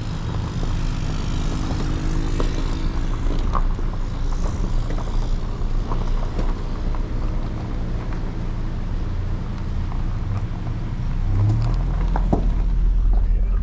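Steady low rumble of a moving car's engine and tyres on the road.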